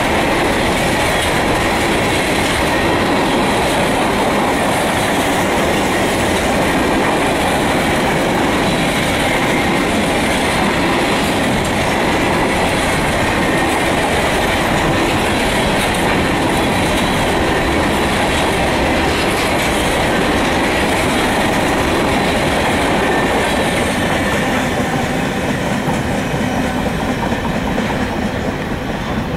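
Freight train's covered hopper cars rolling past close by, steel wheels running over the rails in a loud, steady rumble that eases off near the end as the last cars go by.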